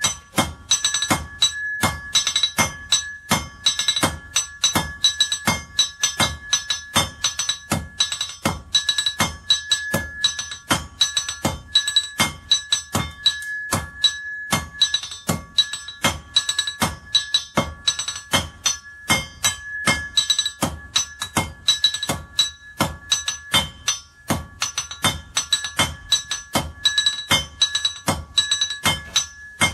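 Blacksmith's hammer striking iron on an anvil in a steady rhythm of about two blows a second, each blow with a bright metallic ring.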